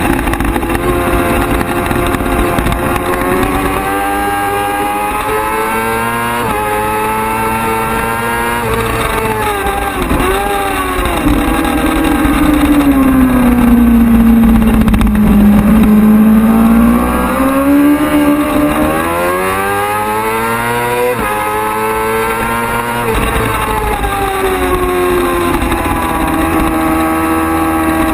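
Racing motorcycle engine running hard through the gears, its note climbing and dropping several times with sudden steps at the shifts. In the middle it sinks slowly to its lowest and loudest, then climbs again and levels off near the end.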